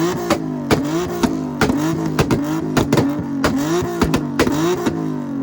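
Car engine held against a rev limiter or two-step, stuttering in a steady rhythm. About three sharp pops or bangs a second, with the revs climbing between each one.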